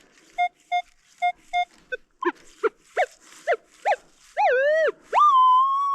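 Metal detector sounding off over a buried target: short regular blips, then a run of short rising-and-falling tones as the coil passes over it, then a swooping tone that settles into a steady high tone held for about two seconds. The high tone marks a strong, shallow metal target.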